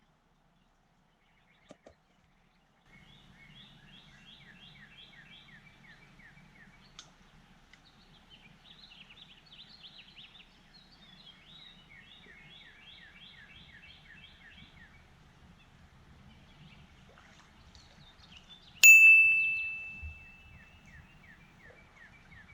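Songbirds singing repeated chirping phrases, starting about three seconds in. Near the end a single sharp metallic ding rings out and fades over about a second and a half, the loudest sound.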